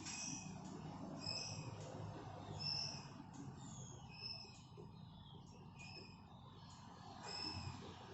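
Young white-rumped shamas giving short, high begging chirps, about two a second, while being fed by a parent, over a low steady background hum.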